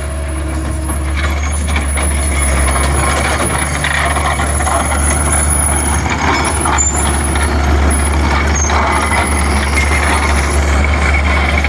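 Skid steer loader running steadily under load, with a thin high whine that breaks off now and then.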